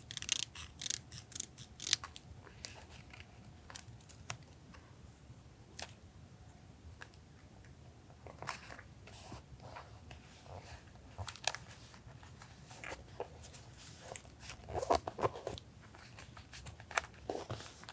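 Paper crafting sounds: paper being handled, snipped and crinkled in short clusters of sharp crackles and rustles, with quieter gaps between them. A low steady hum runs underneath.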